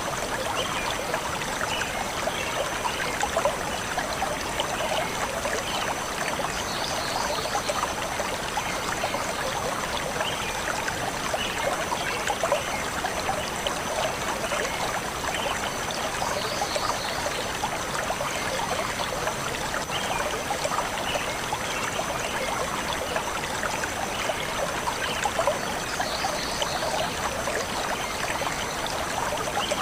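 Forest stream flowing and gurgling steadily, with a faint bird chirping that recurs about every ten seconds.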